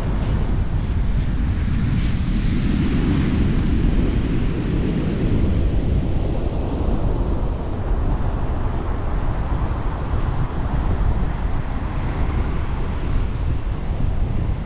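Atlantic surf breaking and washing up the beach, its rush swelling and fading, with heavy wind buffeting the microphone.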